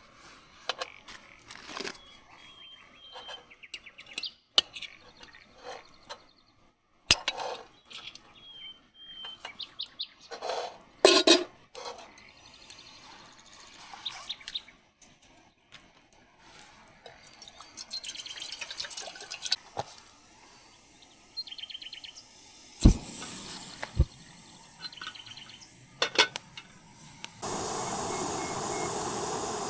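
Birds chirping among scattered knocks, clicks and rustles of someone handling things. A steady hiss starts suddenly near the end.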